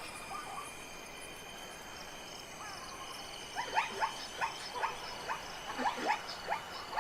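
A steady night chorus of insects and frogs with several high ringing tones. About halfway through, an animal begins a rapid series of short, sharp calls, each sweeping steeply in pitch, about two or three a second, louder than the chorus.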